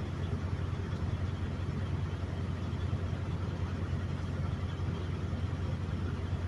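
Steady low drone of a semi truck's diesel engine heard from inside the cab.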